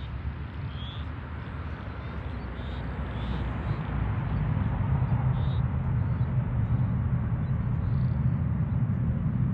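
Low aircraft engine rumble that grows louder about four seconds in, with a few short high bird chirps over it.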